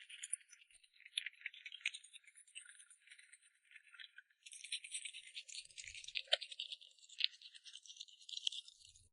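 Rapid, irregular rattling of small hard objects, a dense run of little clicks that breaks off briefly about four seconds in and then resumes.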